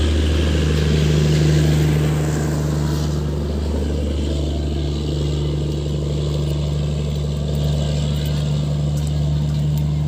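Steady low diesel hum of a Bangladesh Railway passenger train's power car generator as the train pulls away, holding one pitch throughout.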